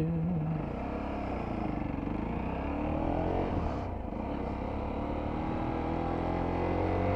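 125 cc motorcycle engine running on the move, its pitch climbing twice as it accelerates, with a brief drop in between.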